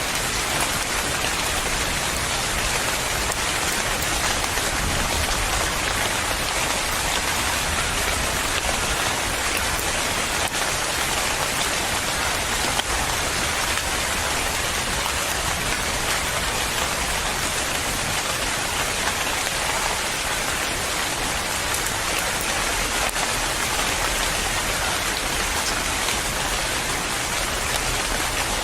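Steady rainfall pattering on a surface, an even, unbroken hiss of drops.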